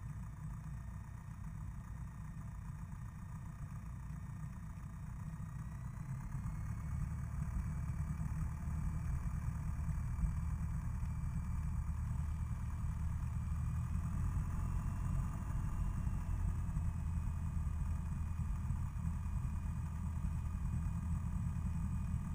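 Single-engine Cessna's piston engine idling, a steady low drone heard inside the cockpit. About six seconds in the engine note picks up slightly and stays up as the plane starts rolling forward, with a faint whine rising along with it.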